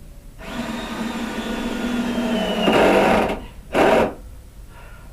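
Ryobi cordless drill running in wood for about three seconds, its motor whine dropping in pitch as it slows under load, then a short second burst of the drill.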